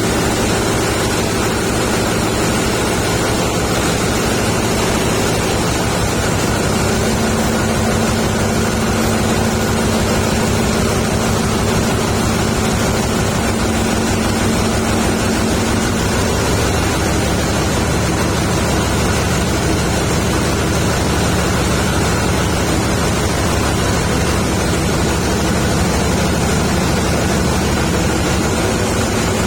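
Large dual-fuel power-plant generator engine running steadily at constant speed, a loud, even, dense rumble with a few steady low hums.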